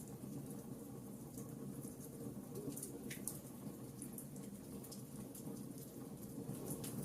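Wood fire crackling softly in a fireplace, with frequent small sharp pops and snaps over a low steady rumble of the flames. One pop about three seconds in stands out from the rest.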